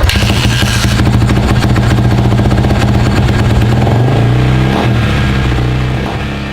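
Dirt bike engine running at steady throttle. It cuts in suddenly and eases off near the end.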